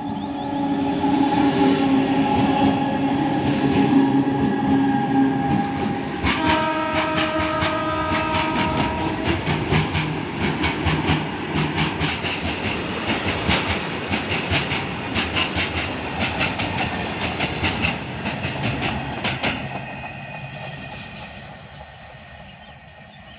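An Indian Railways train passes at high speed. The locomotive's horn sounds a steady chord that drops in pitch about six seconds in as it goes by. Then the wagons clatter past with rapid rhythmic wheel clicks over the rail joints, fading away near the end.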